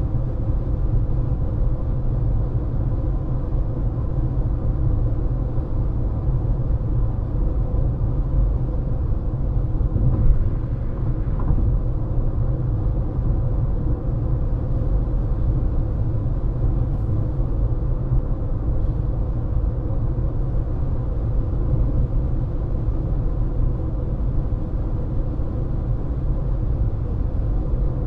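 Car driving at steady speed: a constant low rumble of road and engine noise with a faint steady hum, and a brief light bump about ten seconds in.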